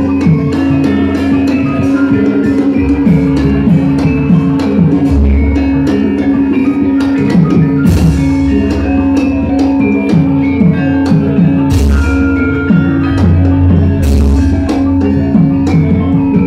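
Javanese gamelan music for wayang, played loud. Drum strokes that drop in pitch run over a steady held metallophone tone, with deep gong-like booms every few seconds and sharp crashing strokes.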